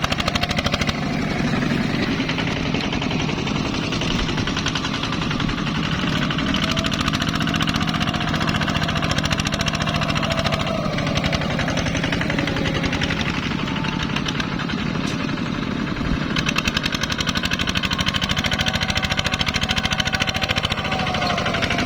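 ZT 155 tractor's engine running steadily under load, with a fast, even beat of engine pulses throughout.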